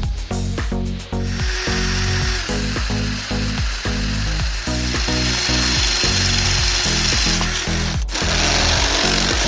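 A power tool running with a steady high grinding noise over background music with a steady beat. The tool starts about a second in and drops out briefly near the end.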